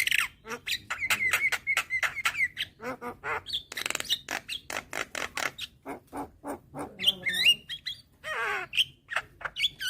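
Javan myna (jalak kebo) calling: a rapid run of clicks and chatter mixed with short whistled phrases, with a harsh squawk about eight and a half seconds in.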